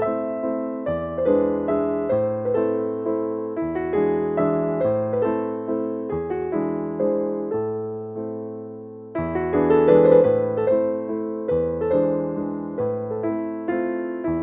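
Background music: a slow piano piece, chords of struck notes fading away over a low bass note that changes every second or two, briefly thinning out just past the middle before swelling again.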